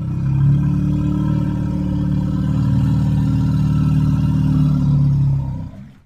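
Woolly mammoth sound effect: one long, low, rough call lasting nearly six seconds, holding steady and then fading out near the end.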